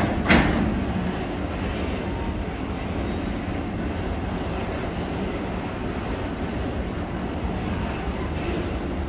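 Freight wagons loaded with steel coils rolling past, a steady heavy rumble of wheels on rail. One sharp bang a moment after the start.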